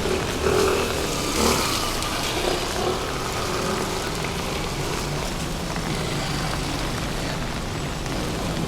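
Steady rain with passing road traffic on a wet city street. A few brief, louder sounds come in the first three seconds.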